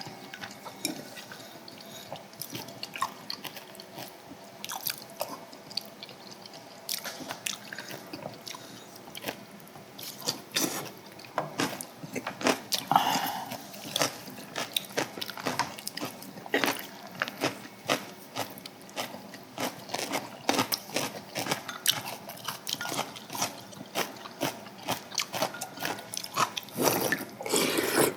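Close-up eating sounds: chewing and crunching food, with many irregular sharp clicks and taps.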